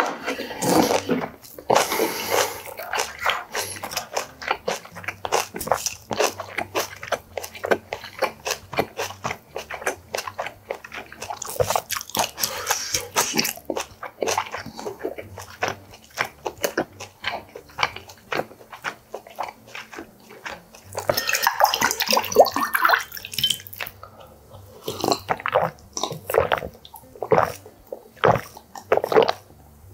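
Close-miked chewing of kimchi and boiled pork: a steady run of wet, crunchy mouth sounds. Near the end, gulps of water from a glass.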